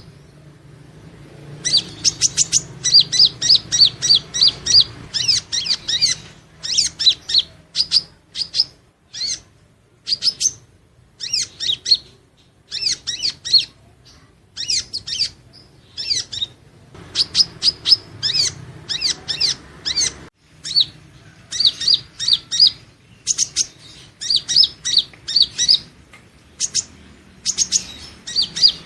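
Purple-throated sunbird (Leptocoma sperata) singing: rapid runs of high-pitched chips and twitters, each run lasting a second or two, with short pauses between.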